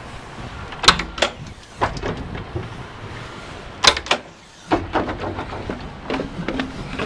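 Sharp clacks and knocks of compartment doors, latches and hardware being worked on an aluminum fire-rescue truck body: two loud ones about a second in, a pair near the middle, then a run of lighter clicks and knocks.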